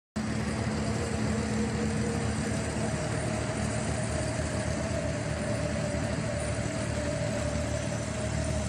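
Engine running steadily, an even hum with a couple of constant tones, starting abruptly just after the start.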